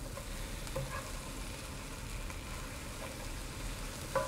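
Scrambled eggs and tomatoes sizzling in a nonstick skillet as a plastic spatula stirs and scrapes through them, with a couple of light knocks of the spatula on the pan, about a second in and near the end.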